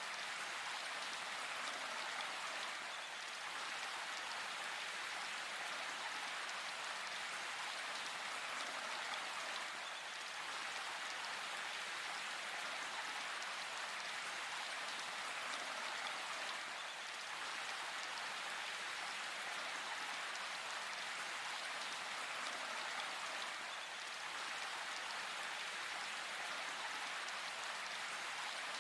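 Steady rain falling in a forest, an even hiss of many drops pattering on leaves and surfaces without a break.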